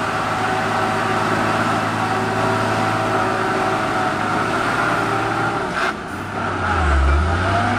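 Heavy diesel truck engine labouring on a steep uphill climb, a steady engine note over road noise. About six seconds in the sound dips briefly with a short click, then a deep low rumble swells near the end.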